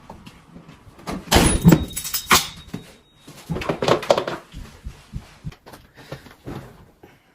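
Clattering knocks and thuds in two bursts, one about a second in and another about three and a half seconds in, then smaller clicks dying away.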